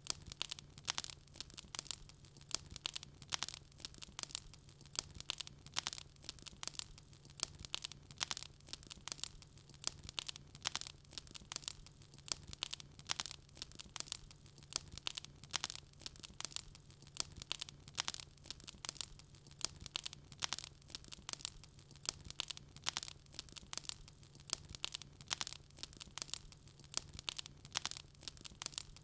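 Wood fire burning in a fireplace, crackling and popping densely and irregularly, several pops a second, over a faint low hum.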